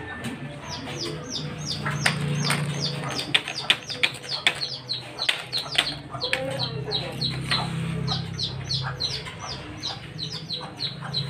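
Birds chirping, short falling chirps several times a second, with a few sharp clicks and knocks about two to five seconds in over a steady low hum.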